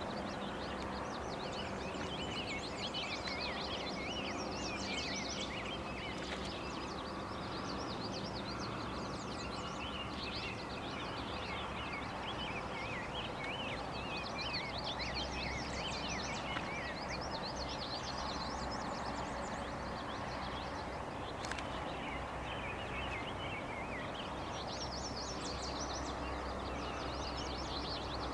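Songbirds singing continuously in quick warbling phrases over a steady rushing background of outdoor noise.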